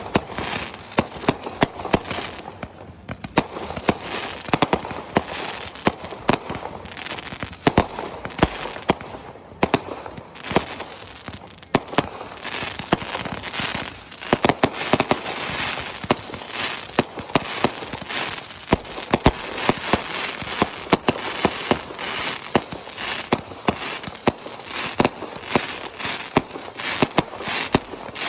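Fireworks display going off nonstop: rapid sharp bangs of bursting shells over a steady crackle. From about halfway, high falling whistles repeat roughly once a second among the bangs.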